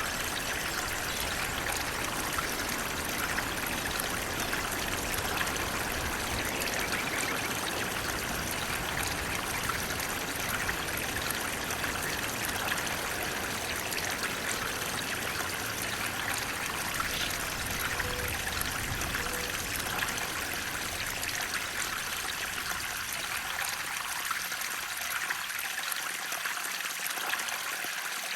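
Flowing water running steadily with a fine trickling hiss, its low rumble thinning out near the end.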